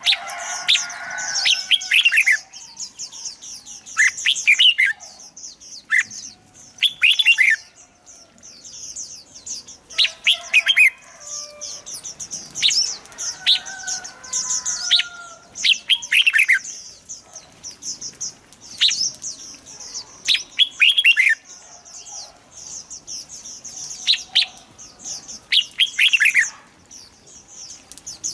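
Red-whiskered bulbuls singing: short, loud whistled phrases of a few quick falling notes, repeated every one to three seconds, over a constant high-pitched chatter and some softer warbling.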